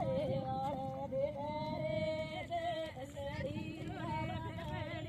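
A woman's high voice singing long, held notes that waver and slide in pitch.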